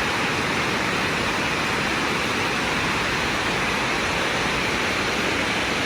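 Steady rush of water cascading down Dunn's River Falls, an even hiss with no break.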